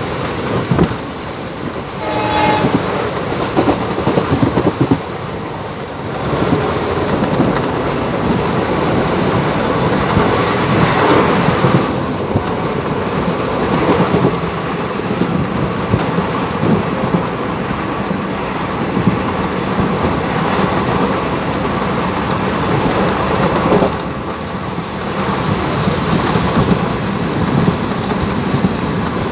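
Passenger train running along the track, its wheels clattering steadily over the rail joints, with a brief horn about two seconds in.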